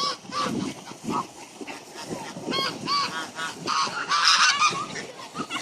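Geese honking repeatedly as they squabble with one another, with a quick run of short honks about two and a half seconds in and a harsher, noisier call about four seconds in.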